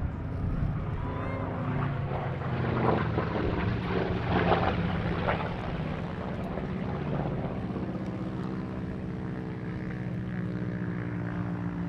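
Curtiss P-36C fighter's Pratt & Whitney R-1830 radial engine and propeller droning as it flies its display, the pitch shifting a little early on and the sound swelling about four seconds in before settling to a steady note.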